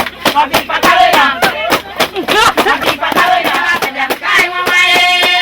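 Group singing over a fast, even beat of drum or hand-clap strikes. About four and a half seconds in, the singing gives way to steady held notes of different music, while the strikes carry on.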